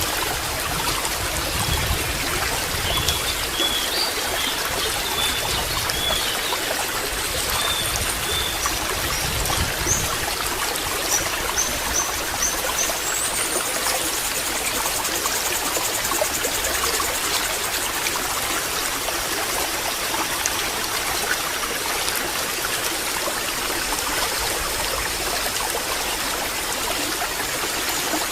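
Water trickling and babbling steadily, like a small stream, with faint high chirps in the middle and a faint high trill near the end.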